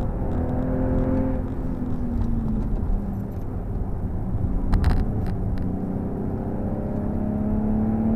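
BMW M135i's turbocharged 3.0-litre straight-six with the M Performance exhaust, heard inside the cabin at speed over steady tyre and road noise. The engine note falls away over the first couple of seconds and climbs again near the end as the car accelerates. A brief burst of sharp clicks comes about five seconds in.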